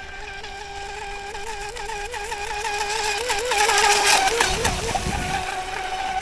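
Brushless electric motor of an RC outrigger racing boat whining at high speed, its pitch wavering rhythmically and the sound growing louder. About four seconds in, a brief rush of noise with a low rumble breaks in.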